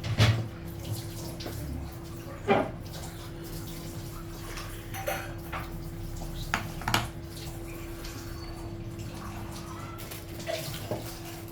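A few short clinks and knocks of plates and utensils during a meal, over a steady low hum.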